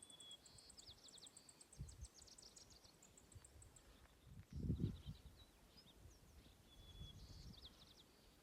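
A small songbird singing quick, high trills and chirps, twice in a row. There are a few low muffled thumps, the loudest about halfway through.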